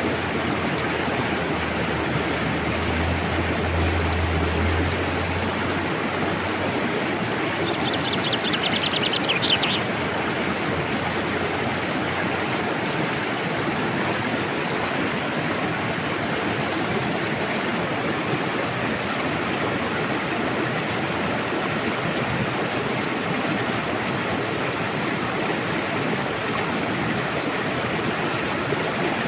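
A forest river rushing steadily, an even wash of water noise. A small bird gives a short rapid trill about a third of the way in, and a low hum sits under the water for the first few seconds.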